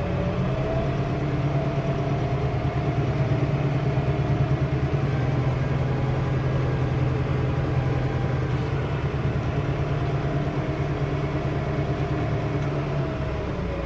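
An engine running steadily, its pitch rising slightly about a second in and easing back down near the end.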